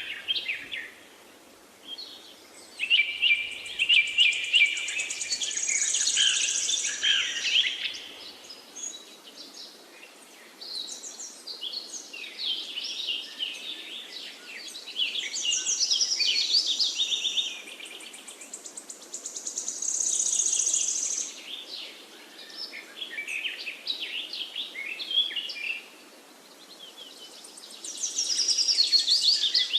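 Songbirds chirping and singing in phrases of a few seconds, with short lulls between, some high, fast trills among them, over a steady faint background hiss.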